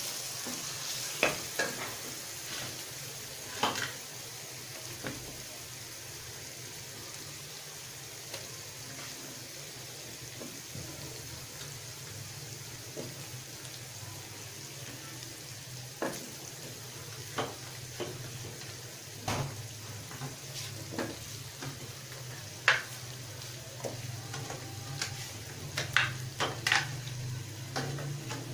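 Frozen chicken koftas being added one by one to masala frying in oil in a metal kadai: a steady low sizzle, broken by scattered knocks and scrapes of a wooden spatula against the pan.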